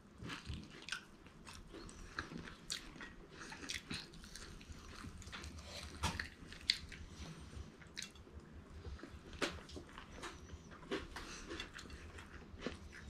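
Close-up chewing and biting of crunchy fried chicken, with irregular small crunches and clicks between moist chewing.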